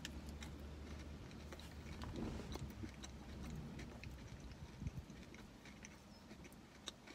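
A person chewing a mouthful of soft protein crunch bar with crisp bits on top, faint, with small crunchy clicks.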